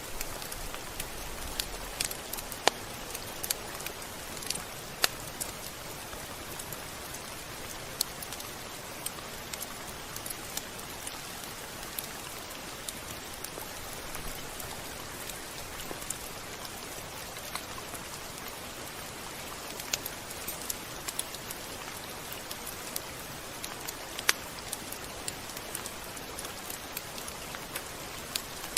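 Steady rain falling, a constant hiss with scattered sharp drop impacts.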